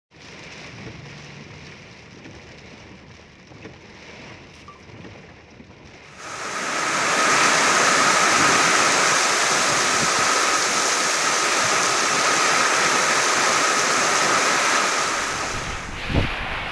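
Heavy rain pouring down with strong wind. About six seconds in it suddenly becomes much louder and stays loud, easing slightly near the end, where a short low thump is heard.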